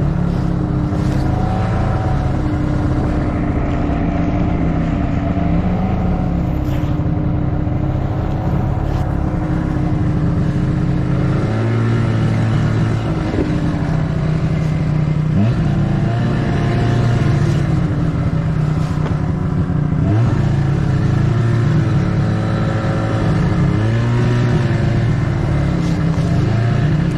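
Snowmobile engine running under way, its pitch rising and falling with the throttle, with two quick upward revs past the middle.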